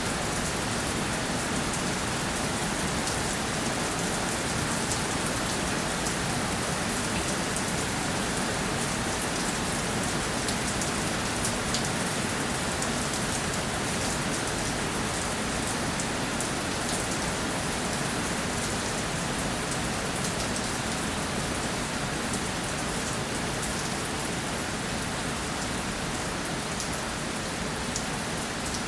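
Steady rainfall, an even hiss of rain on a surface with many fine individual drop ticks.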